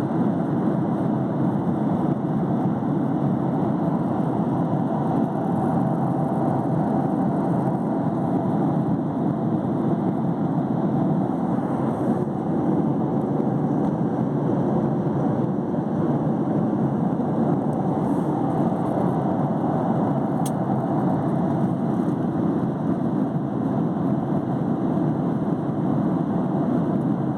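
Aeroplane engines giving a steady, even rumble that holds unchanged throughout.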